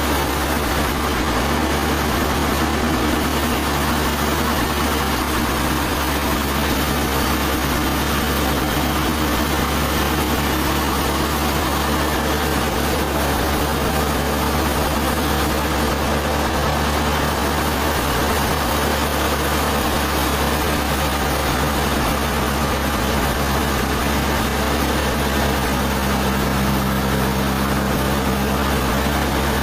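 Sawmill machinery running steadily, a constant motor hum under an even noise with no breaks or changes.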